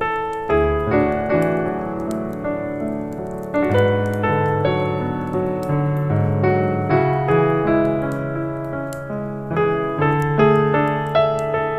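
Piano music: gentle chords and melody notes struck several times a second, with faint crackles from a fireplace underneath.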